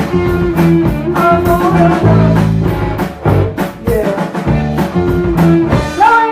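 Live rock band playing with electric guitar over a steady drum beat, a lead line holding and bending notes. About six seconds in the drums stop and a single chord is left ringing.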